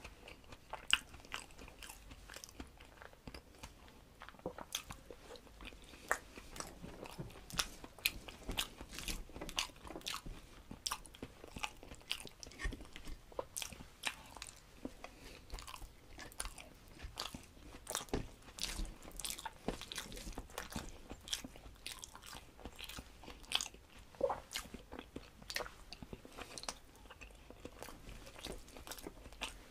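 Close-miked eating by hand of rice, eggs and curries: steady chewing and lip-smacking, with frequent short, wet clicks several times a second.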